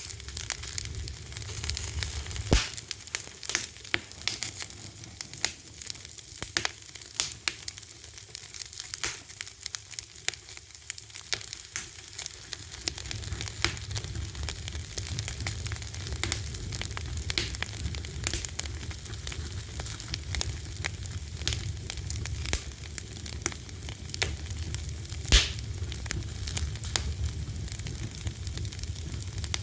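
Wood fire crackling: a steady hiss with many small irregular pops and snaps, a sharp louder pop about two and a half seconds in and the loudest one about twenty-five seconds in, over a low rumble.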